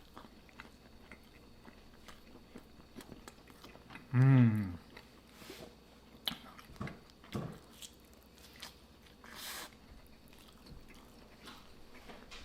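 Close-up eating sounds of pizza being bitten and chewed, with soft crunches and mouth clicks. About four seconds in comes a short hummed vocal sound falling in pitch, the loudest sound here.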